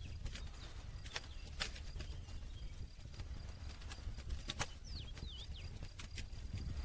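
Campfire crackling: scattered sharp pops and snaps over a steady low rumble, with a few faint high chirps about five seconds in.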